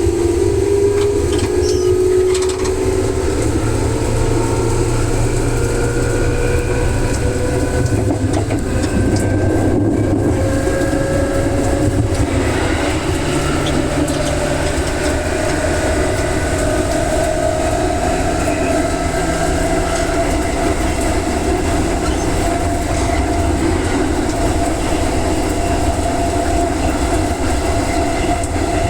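Electric train running, heard from on board: the traction motors whine, climbing steadily in pitch as the train accelerates, over a steady rumble of wheels on rail.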